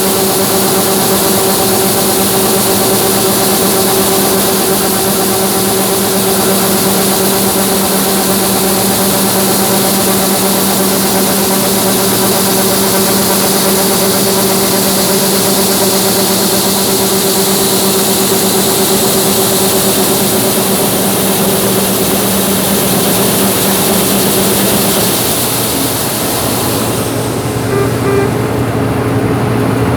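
Heavy farm machinery engine running steadily, a constant low tone with a high hiss over it. About 25 seconds in, the tone drops away and a lower, quieter hum takes over.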